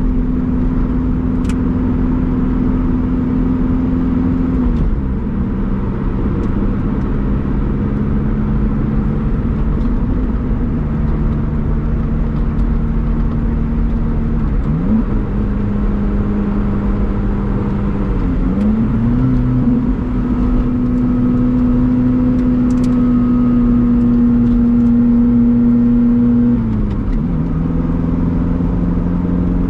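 Lotus Elise Sport 220 II's supercharged Toyota 2ZR four-cylinder running under way, heard from inside the cabin. The engine note holds steady for long stretches and changes pitch several times: it steps down about five seconds in, dips and recovers twice in the middle, and drops again near the end.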